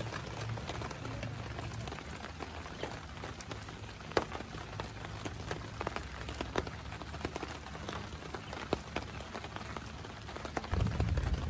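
Heavy rain falling, with large drops striking a surface close by in sharp, irregular taps. A low rumble runs underneath and grows louder near the end.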